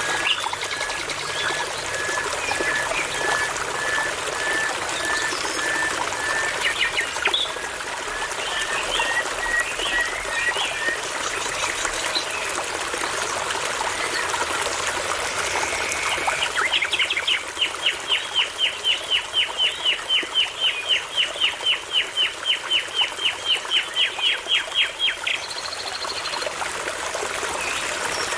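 Songbirds singing over the steady rush of a babbling brook. First comes a slow series of short whistled notes, about two a second, creeping up in pitch. Past the middle, a long rapid run of about thirty sharp down-slurred notes follows, some four a second.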